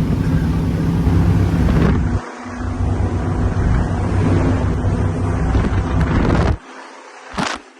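Offshore powerboat engines running at speed, with wind buffeting the microphone. The sound breaks briefly about two seconds in and drops away abruptly near the end, leaving a quieter hiss with one short gust.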